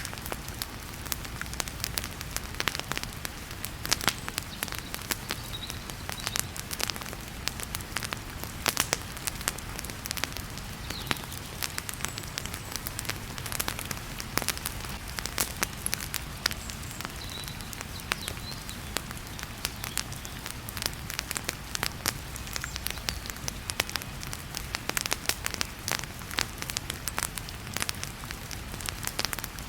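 Wood fire crackling, with frequent irregular sharp pops and snaps, over a steady hiss of heavy rain.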